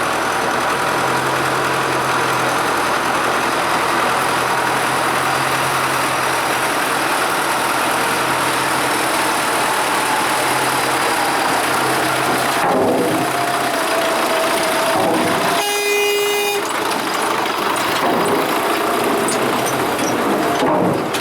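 Diesel engine of a farm machine running steadily at idle, with a constant low hum. About three-quarters of the way through, a vehicle horn sounds once, briefly, just after a wavering whine.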